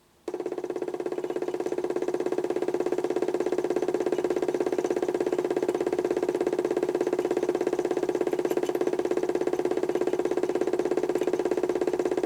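HUSTOO 775 DC motor in a modified toy washing machine, driving the drum through a pulley: it switches on suddenly with a steady hum that pulses rapidly and evenly, then cuts off abruptly near the end.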